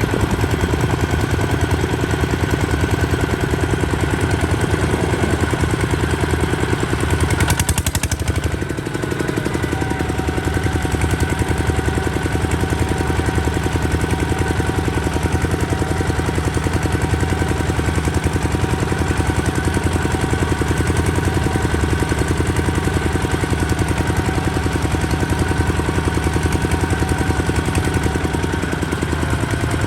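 Kubota ZT155 DI single-cylinder diesel engine running steadily with a fast, even firing beat. About eight seconds in, the sound briefly changes and dips, then settles back to steady running.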